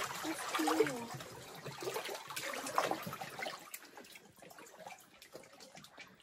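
Water splashing and trickling as people move through water, the small splashes fading after a few seconds, with faint distant voices in the first second.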